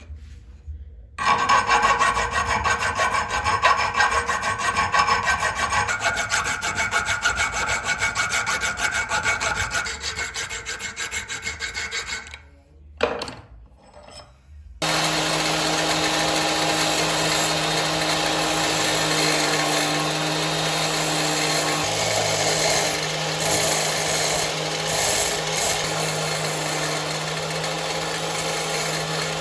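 Tool work on a steel sprocket blank: for about ten seconds, rapid rasping strokes on metal with a faint ring. Then, after a short pause, a power tool motor starts about halfway through and runs steadily with a constant hum as it works the steel.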